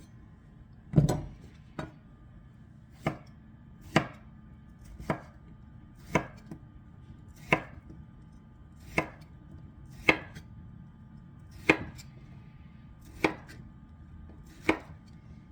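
Paring knife chopping squash into pieces on a cutting board: about a dozen single sharp knocks at a slow, steady pace, a little over a second apart.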